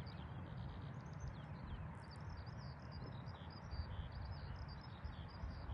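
Small birds chirping in quick, short high notes, many calls overlapping, over a steady low rumble.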